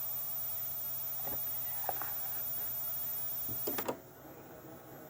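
VHS tape playback noise: a steady hiss and hum with a high whine and a few faint clicks, dropping to a quieter hiss after a burst of clicks about four seconds in.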